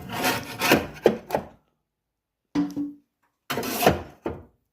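Tissue paper and firewood being pushed into a wood fireplace: rubbing and scraping with a few knocks, in three short bursts.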